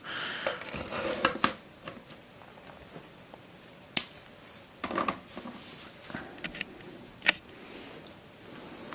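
Plastic magic snake puzzles being handled and set down together: scattered light clicks and clacks of the plastic segments, several seconds apart, with some handling noise in the first second or so.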